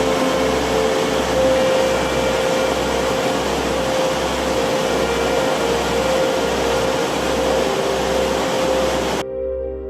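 Steady rushing of a waterfall, with soft held ambient music tones and a slow low pulse underneath. The water cuts off abruptly near the end, leaving only the music.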